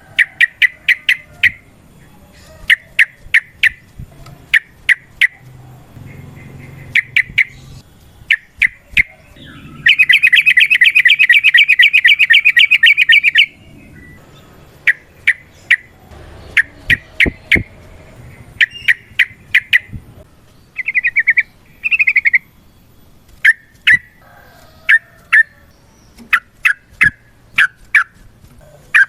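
Yellow-vented bulbul (trucukan) singing in its excited 'ropel' style: groups of short, sharp, clipped notes in quick succession. About ten seconds in, a loud, very fast rattling trill lasts about three and a half seconds. Two brief warbled phrases come a little after the middle.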